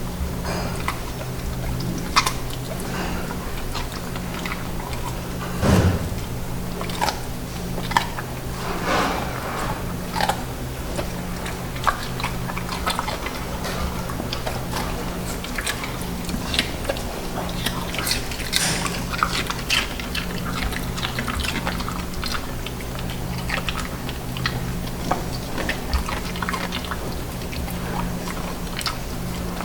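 A dog chewing, with irregular short crunching clicks over a steady low electrical hum.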